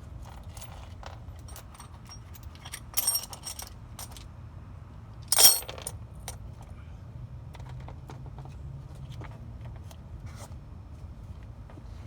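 Metal hardware being handled during the CV axle install: light clicks throughout, a burst of ringing metallic clinks about three seconds in and a louder metal clatter about five and a half seconds in.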